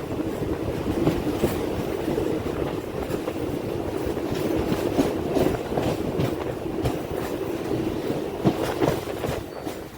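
Train running along the track: a steady rumble with wheel clicks over the rail joints.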